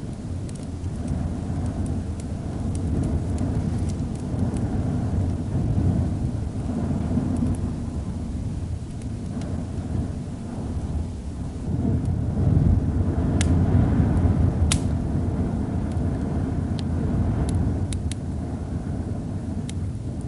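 Wood fire crackling with scattered sharp pops, two louder ones near the middle, over the low rumble of storm wind that swells and eases in gusts, growing stronger a little past halfway.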